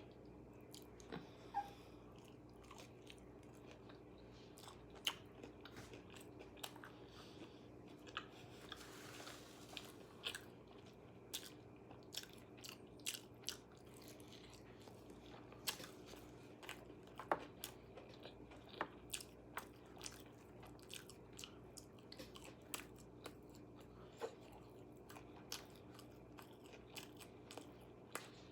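Close-up eating of KFC fried chicken: sharp, irregular crunches of crispy breading and chewing, a few each second, over a steady low hum.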